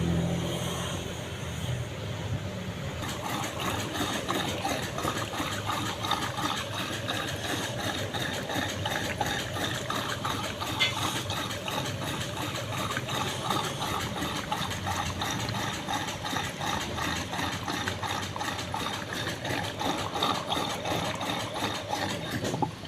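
A machine running steadily, with a fast, even ticking from about three seconds in.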